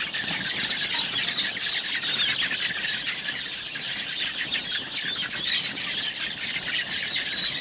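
A large flock of BV300 layer chickens calling all at once: a steady din of many short, overlapping high-pitched calls.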